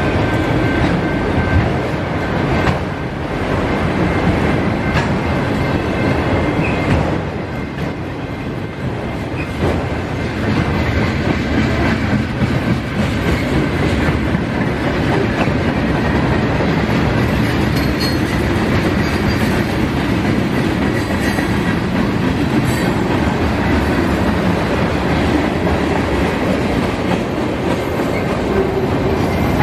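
Freight train cars rolling past at close range: a steady loud rumble of steel wheels on rail, with clattering as the wheels cross rail joints.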